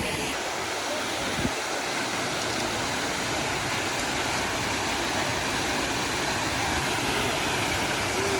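Waterfall's falling water rushing steadily, an unbroken hiss-like noise.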